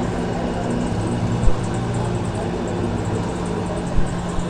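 A steady low motor hum with a constant drone, broken by a short knock about one and a half seconds in and another near the end.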